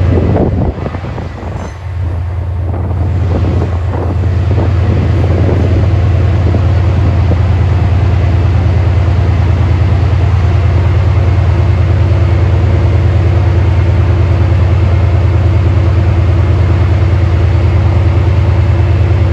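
Train at a station running with a loud, steady low drone, with some uneven rumbling in the first few seconds.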